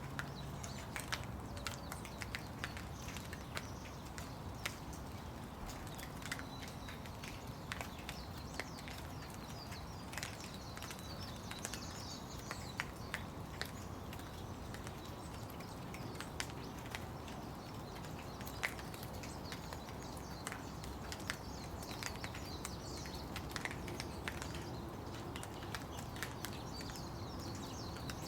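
Steady rain falling, with many irregular sharp drops landing close by.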